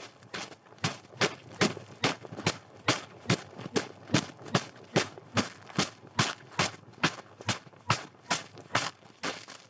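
Footsteps crunching in snow at a steady walking pace, about two and a half steps a second.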